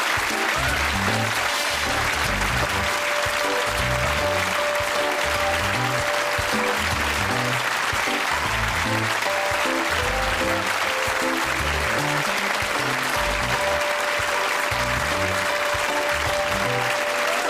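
Closing theme music with a repeating bass line and a held melody note, playing under a studio audience applauding steadily.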